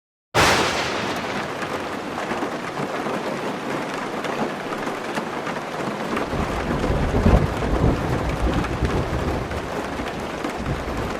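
Steady rain that starts abruptly, with a low rumble of thunder building about six seconds in and loudest a second later.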